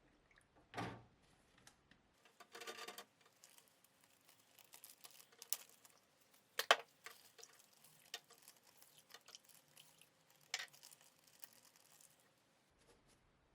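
Scattered light clicks and taps with small handling noises in between, a short rattle about two and a half seconds in, and a sharper click a little past the middle as the loudest sound.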